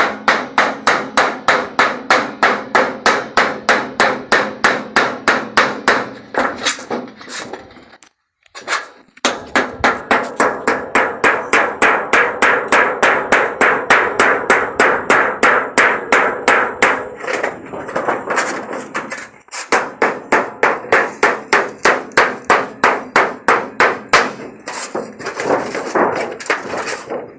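A piece of wood striking the back of a knife over and over, driving the blade through a galvanized zinc sheet to cut it. The blows come evenly at about three a second, with two short pauses, about eight and nineteen seconds in.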